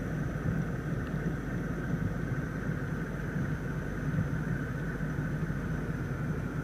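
Steady low hum and hiss inside a parked car's cabin, from the running engine and the climate-control fan.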